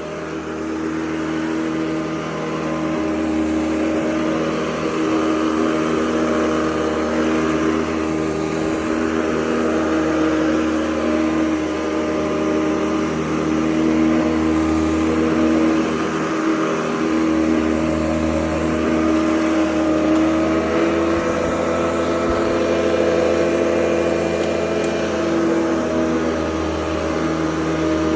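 Hoover Convertible U4101 upright vacuum cleaner running steadily, a motor hum made of several steady tones over a rushing noise. It grows a little louder over the first few seconds, and its pitch rises slightly about twenty seconds in.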